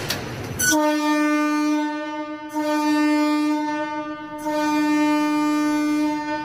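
A hiss of air, then a locomotive air horn sounding one long, steady blast of about six seconds, wavering in loudness twice along the way.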